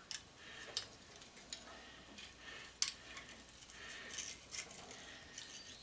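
Light metallic clicks and clinks of hand tools and small metal parts being handled while an electric motor is taken apart, with the sharpest click about three seconds in.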